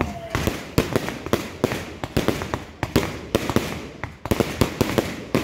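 Fireworks going off at close range: a rapid, irregular run of sharp pops and bangs as sparking shots rise and burst.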